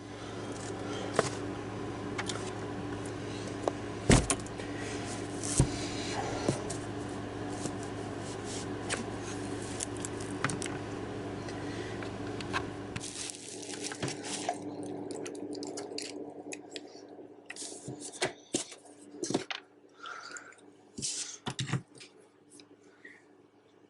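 Steady electrical hum under scattered clicks, knocks and scrapes of small hard objects being handled. The hum cuts off about thirteen seconds in, leaving only sporadic clicks and taps.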